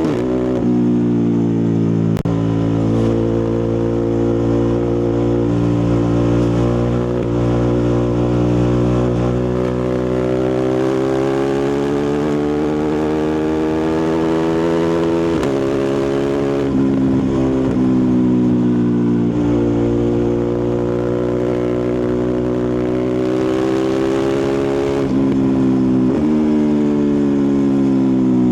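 Ducati Multistrada 1260 Pikes Peak's 1262 cc Testastretta V-twin engine and exhaust under way. The pitch climbs slowly as the bike accelerates, drops suddenly at upshifts about 15 s in and near the end, and climbs quickly again about 26 s in.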